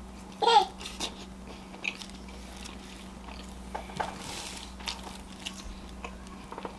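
Close-miked eating: chewing and biting with soft crunches and wet mouth clicks at irregular intervals. A brief pitched vocal sound about half a second in is the loudest moment.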